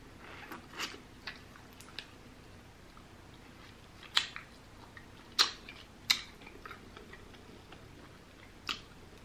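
Close-miked eating of glazed rotisserie chicken: chewing with a series of sharp, crackly mouth clicks and smacks, the loudest clustered around the middle and one more near the end.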